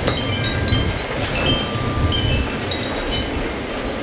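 Blizzard wind gusting against the microphone in a heavy, fluttering rumble, with wind chimes ringing in short, scattered notes of different pitches.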